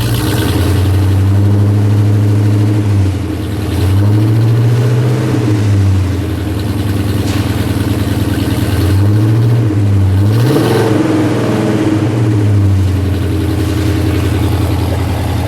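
1969 Pontiac GTO Judge's 400 cubic-inch V8 revved repeatedly from idle, engine speed climbing and falling back several times.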